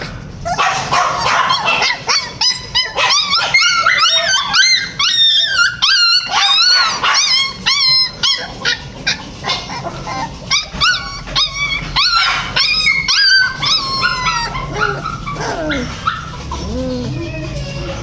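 Aspin puppies crying: a rapid string of high-pitched whimpers and yips, thinning out and dropping lower after about 14 seconds.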